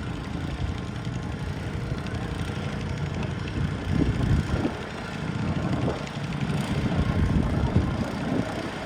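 Garden tractor engine running, with its level rising and falling a little in the second half.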